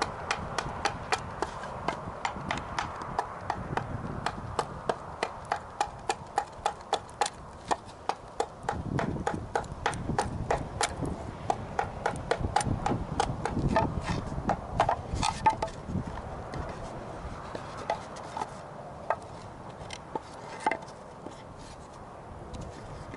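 Hand tool gouging and scraping charred wood out of a wooden dish: a run of short, sharp wooden knocks and scrapes, about two to three a second, thinning out in the last few seconds.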